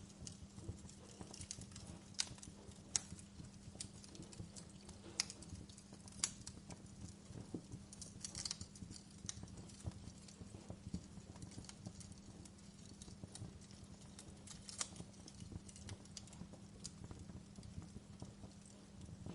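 Wood fire crackling, with irregular sharp pops and snaps of burning logs over a low steady rumble of the flames; a few louder pops stand out, and the crackle thickens briefly around the middle.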